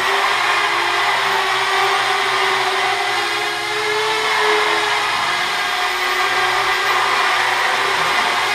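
Parrot Bebop quadcopter's propellers whirring steadily as it hovers, with a brief lift in pitch about four seconds in.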